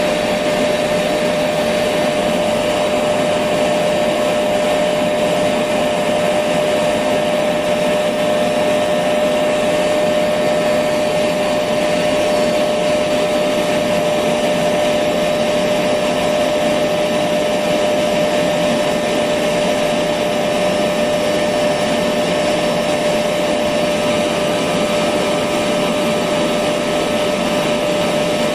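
Electric vacuum cleaner motor running steadily, a constant whooshing hiss with a steady hum in it, played as white noise for a baby's sleep.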